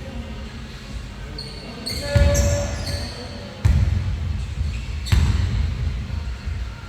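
A basketball bouncing hard on a gym floor: three heavy thuds, about two, three and a half and five seconds in. Short high squeaks sound around the first thud.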